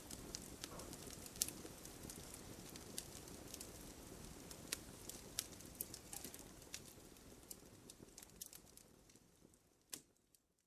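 Wood campfire crackling, a low steady rumble of flame with irregular sharp pops and snaps. It fades out gradually over the last few seconds to silence.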